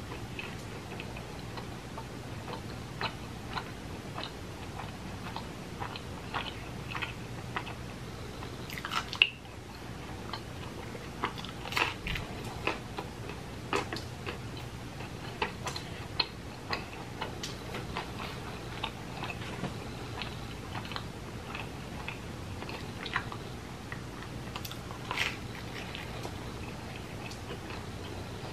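Close-up mouth sounds of a person chewing and biting pizza: irregular wet clicks and smacks, the sharpest about nine seconds in, over a steady low hum.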